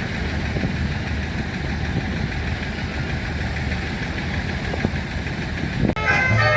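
Vintage crawler tractor's petrol-paraffin engine idling with a steady low rumble. About six seconds in, it cuts off abruptly and guitar music begins.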